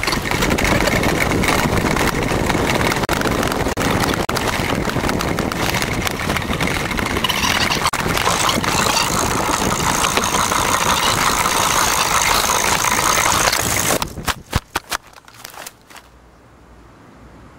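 Homemade gravity go-kart rolling down a slope on small bike wheels: a steady rumble and rattle that cuts off about fourteen seconds in, followed by a few knocks.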